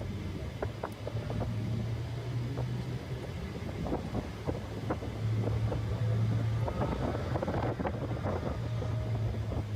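Car driven at track pace, heard from the cabin: a low engine drone that swells and fades in stretches under road rumble, with heavy wind buffeting and crackling on the microphone.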